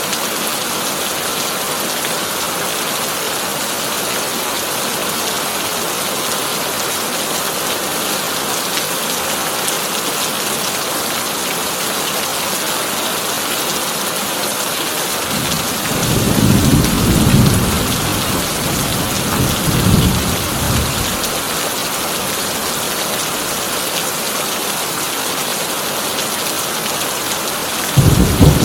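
Heavy rain falling steadily on a tin roof. About halfway through, a peal of thunder rolls in and swells twice before fading, and another loud thunderclap breaks in near the end.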